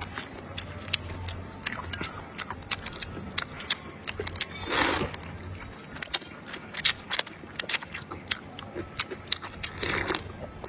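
Close-up eating sounds: chewing and biting of spicy sheep's leg noodle soup, many small wet clicks and crunches, with a louder short hissing burst about five seconds in and another near the end.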